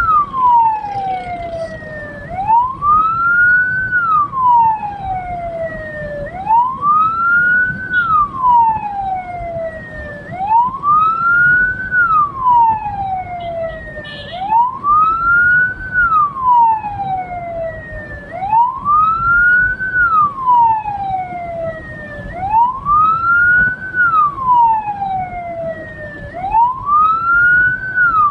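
Hearse's electronic wail siren sounding continuously, each cycle rising quickly and sliding slowly back down, about once every four seconds, over a low vehicle rumble.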